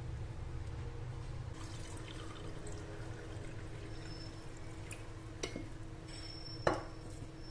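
Quiet kitchen handling sounds over a steady low hum: a soft stretch of splashy noise, then a few light clicks and one sharper knock about seven seconds in.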